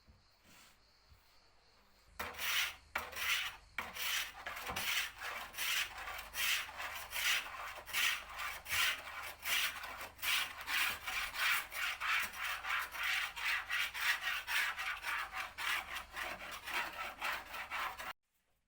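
Wood being worked by hand with an abrasive tool, rubbing back and forth in steady strokes about two a second. It starts about two seconds in and cuts off abruptly near the end.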